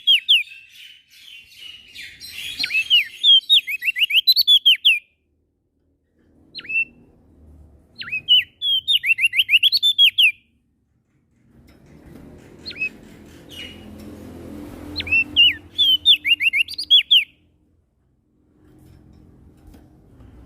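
Prenjak daun songbird singing in rapid runs of sharp, down-slurred whistled notes, several phrases of a few seconds each with short pauses between. A faint low rumble sits under the song near the middle.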